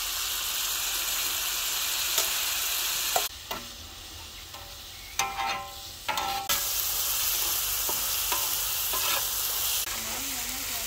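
Paste sizzling in hot oil on a large flat iron griddle, with a metal spatula scraping and tapping on the plate. The sizzle drops away for about three seconds near the middle, then comes back.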